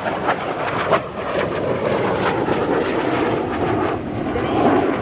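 Jet noise from a Saab AJS 37 Viggen's single Volvo RM8 turbofan in flight: a loud, steady rushing noise with a rough crackle in the first second.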